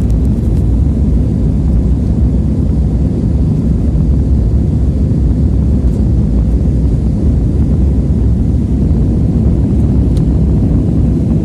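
Airliner cabin noise: a steady, even low rumble of the engines and airflow heard from a window seat.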